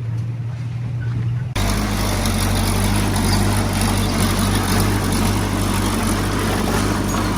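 Diesel engine of heavy earthmoving equipment running steadily. The sound turns abruptly louder and fuller about a second and a half in.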